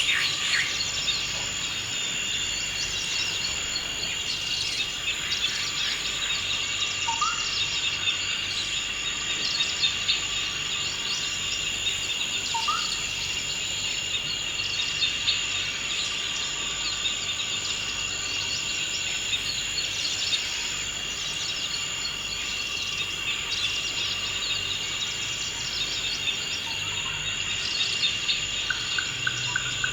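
Forest ambience of a steady, unbroken insect chorus, with a few short rising bird calls now and then.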